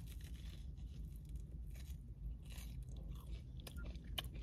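Faint close-up chewing and biting of a Del Taco caramel cheesecake bite, a fried pastry, with scattered small clicks and crackles from the mouth.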